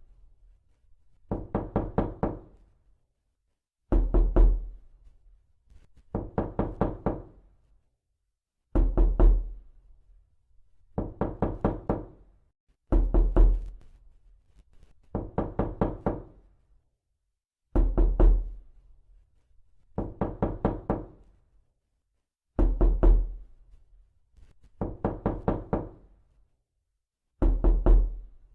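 Knuckles knocking on a door in repeated rounds: a loud, heavy cluster of about four quick knocks, then a softer run of five or six, the pattern repeating every few seconds as a loop.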